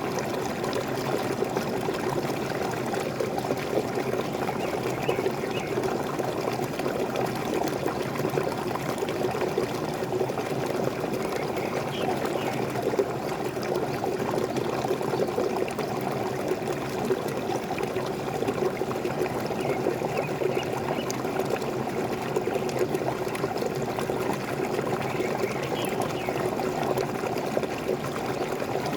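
Small waterfall splashing and pouring steadily, with a few faint, brief bird calls over it.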